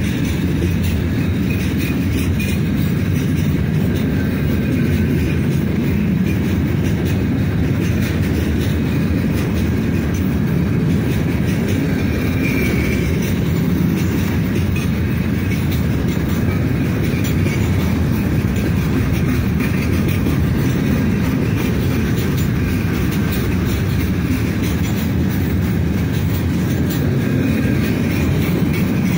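Freight train's open-top wagons rolling past close by: a steady, heavy rumble of steel wheels on the rails.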